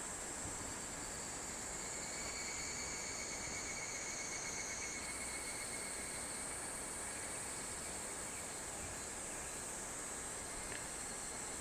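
A summer insect chorus: several insects shrilling steadily at high pitches over an even background hiss. The highest tone shifts about five seconds in.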